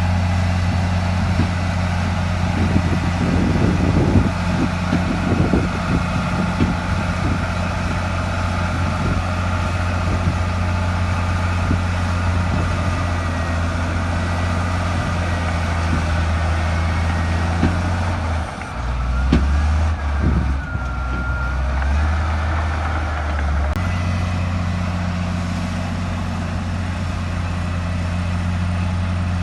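Heavy diesel engine of a working bulldozer running steadily, with scattered clanks and knocks in the first several seconds. Its note drops lower for about five seconds just past the middle, then returns.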